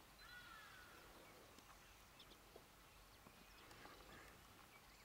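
Near silence: faint outdoor quiet with a few distant bird calls, a faint falling whistle near the start and several short chirps after it.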